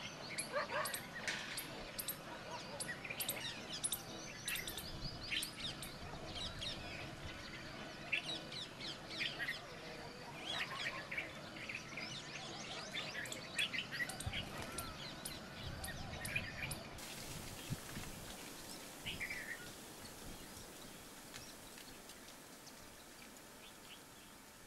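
Birds calling: many short, sharp chirps that come thick and fast, then thin out to only a few calls after about seventeen seconds.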